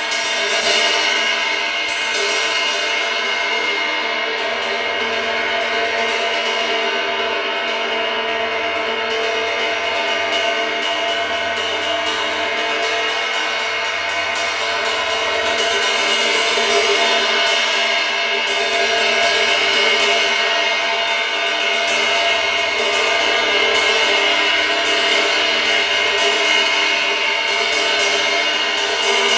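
Pink noise: a steady, unbroken hiss at an even level, with faint steady tones running through it.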